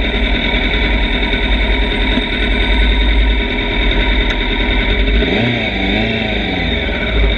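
Motorcycle engine running under way, with heavy wind rumble on the microphone. A little past halfway the engine's pitch falls and rises twice as the revs change.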